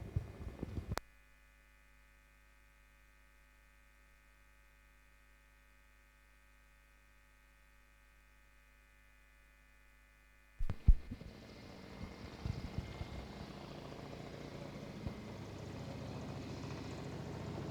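The audio cuts to dead silence about a second in and stays silent for some nine seconds. It comes back with a few knocks, then a steady noise of approaching Kamov Ka-31 helicopters that grows slowly louder.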